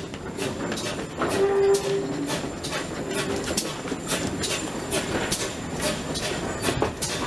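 Heritage steam-hauled train running along the line, its wheels clicking over the rail joints in a quick, even rhythm. A short steady tone sounds about a second and a half in, with a fainter one a little later.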